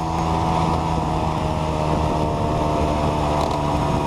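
Motor scooter engine running steadily with the throttle held open, pulling up a mountain road.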